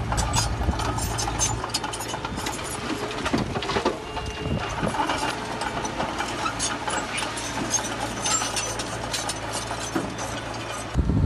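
Heavy diesel earthmoving machinery running steadily, with irregular metallic clanks and rattles over the engine note.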